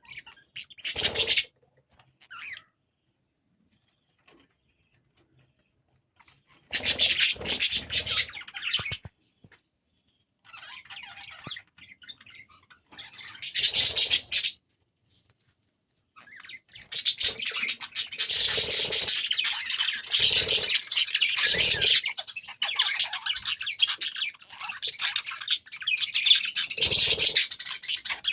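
Lovebirds screeching and chattering harshly, males squabbling over a female. The calls come in short bursts at first and then run almost without a break for the last ten seconds or so.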